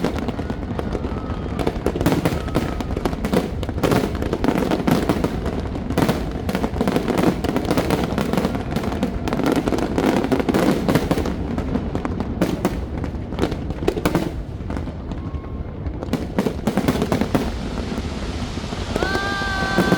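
Fireworks going off in a dense, irregular string of bangs and crackles, over the chatter of a large crowd. Near the end a long, steady high-pitched tone sounds.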